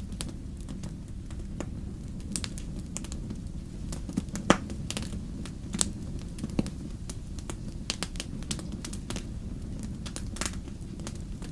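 Fireplace fire crackling: a steady low rumble under many quick sharp snaps. The loudest pop comes about four and a half seconds in, with smaller pops a second and two seconds later.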